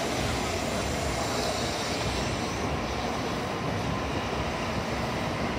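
N700A Shinkansen bullet train running past on elevated track: a steady rush of wheel and running noise with no change in level.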